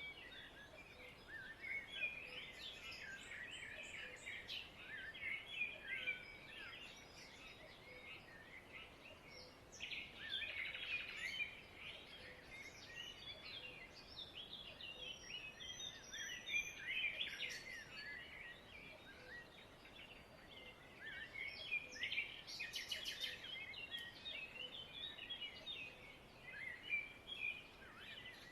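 Many small birds chirping and twittering at once, a dense, continuous chatter of short overlapping calls that swells in a couple of places.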